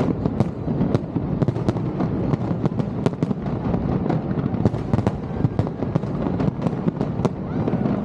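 Aerial fireworks display going off in a continuous barrage: sharp bangs several times a second over a steady low rumble of overlapping bursts.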